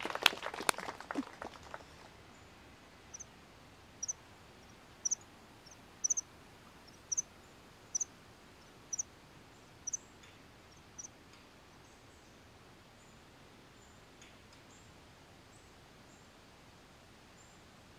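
A brief spatter of applause fading out in the first second or two, then a bird's short high chirp repeated about once a second, nine times, over faint steady background hiss.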